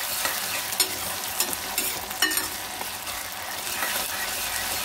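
Chopped onions with ginger-garlic paste sizzling in hot oil in a stainless steel kadhai, stirred with a steel ladle that clinks against the pan a few times in the first half.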